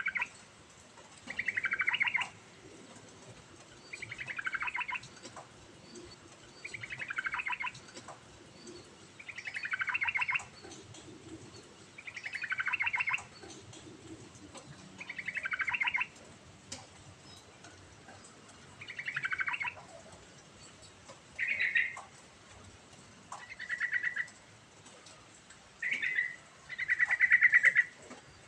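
Yellow-vented bulbul (trucukan) singing: about a dozen short phrases, each a rapid run of notes falling in pitch, repeated every two to three seconds; the last few phrases are shorter and steadier in pitch.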